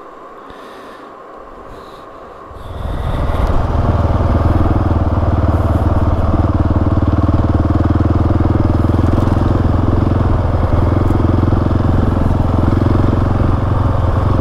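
Single-cylinder dual-sport motorcycle engine pulling away: quieter for the first couple of seconds, then the throttle opens and it runs loud and steady under load on the ride.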